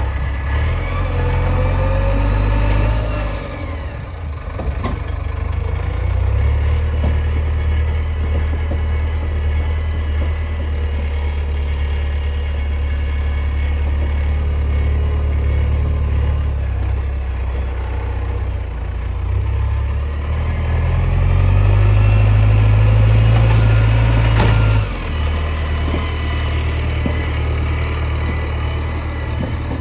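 Heavy diesel engine running, its revs rising and falling several times, with the strongest burst of revs near the end that cuts off suddenly.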